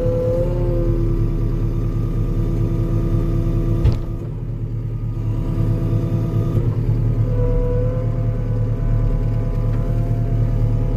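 Compact diesel earthmoving machine's engine working under load, with a hydraulic whine that rises and falls. One sharp knock comes about four seconds in.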